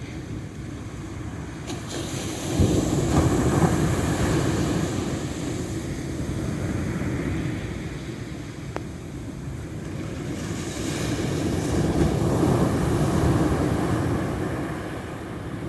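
Ocean surf: waves breaking and washing in, swelling twice, once a few seconds in and again in the second half, with wind on the microphone.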